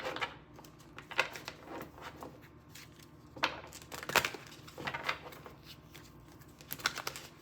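Tarot cards being handled and laid down on a table: irregular light taps and short slides of card stock, a dozen or so, with pauses between.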